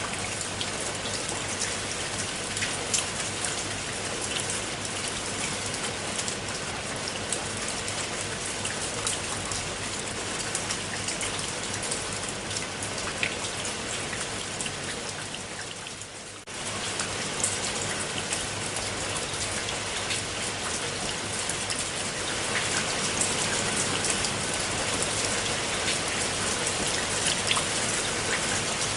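Steady rain falling on a pool of water, a dense hiss of many small drop patters. About sixteen seconds in it briefly fades down and cuts straight back in, and it grows a little louder in the last few seconds.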